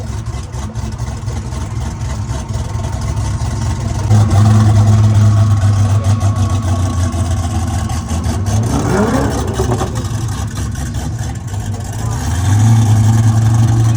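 Car engine running with a steady low hum that swells louder twice, and one brief rise in pitch like a rev a little past the middle.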